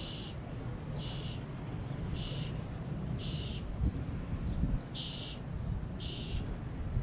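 Strong wind rumbling on the microphone, with a short high-pitched call repeating about once a second over it.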